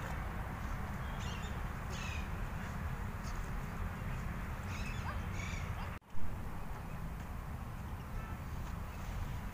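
Birds give several short calls, a few in the first half, over a steady low rumble. About six seconds in, the sound drops out for a moment and a sharp loud pop follows.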